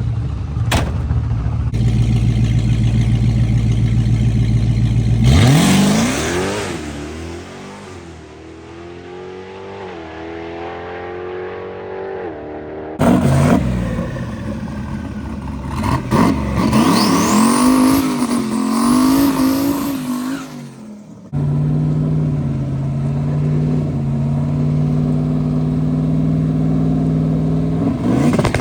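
Drag racing engines. One idles steadily, then a car launches and revs hard up through the gears, fading as it pulls away. More hard revving follows, then an engine idles steadily again after an abrupt change near the end.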